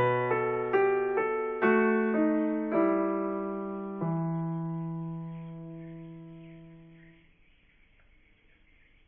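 Background piano music: a phrase of notes stepping down to a held chord that fades out about seven seconds in, leaving only a faint high hiss.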